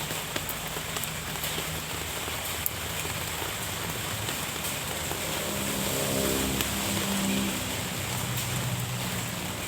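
Steady rain falling, with scattered sharp drips. From about five seconds in, a motor vehicle's engine hum swells and fades again near the eight-second mark.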